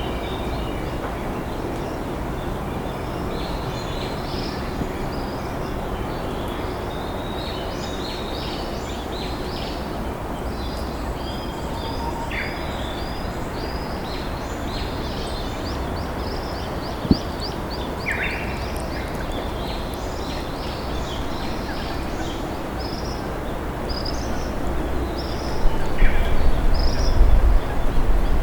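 Steady rush of a slowly flowing river with wild songbirds chirping and singing over it, including a quick run of repeated notes. A single sharp click partway through, and a louder low rumble builds near the end.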